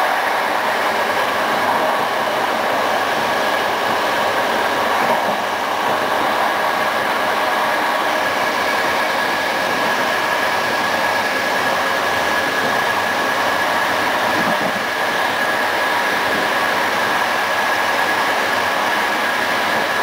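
Passenger train hauled by an EU07 electric locomotive running steadily at speed: continuous wheel-on-rail noise with a steady high whine over it.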